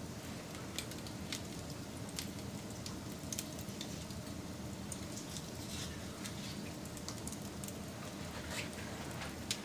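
Wood fire burning: a steady low rush with scattered sharp crackles and pops, the loudest pop near the end.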